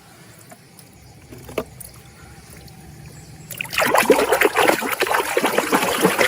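Water trickling and splashing. It starts loudly about three and a half seconds in, after a quiet stretch with a couple of faint clicks.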